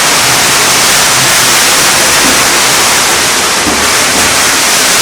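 Heavy typhoon rain pouring down: a steady, loud hiss that does not let up.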